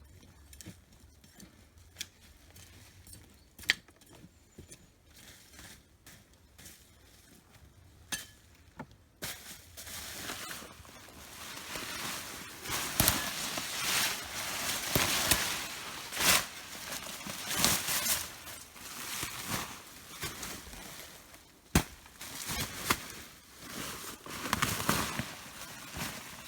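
Soil being dug through by hand to lift sweet potatoes: a few faint clicks at first, then from about a third of the way in a busier crunching and rustling of earth and foliage with occasional sharp knocks.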